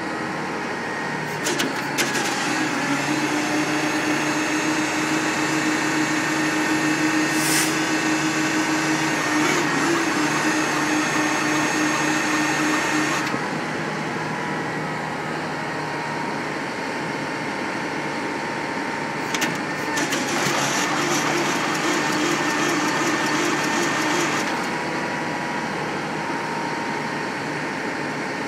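Engine of a pump unit with blown turbochargers, running steadily with a low hum. It gets louder, with a hiss, from about two seconds in until about halfway, then settles back. It rises again for about five seconds later on.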